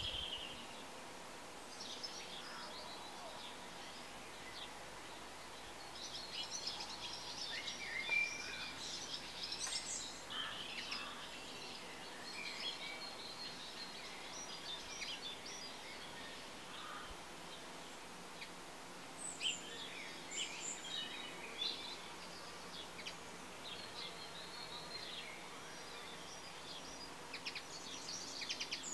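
Birds chirping in the background: scattered short chirps that come and go in clusters over a steady low hiss.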